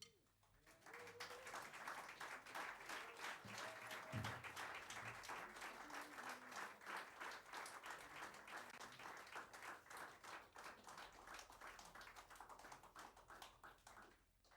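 Small audience clapping, swelling after about a second and dying away near the end.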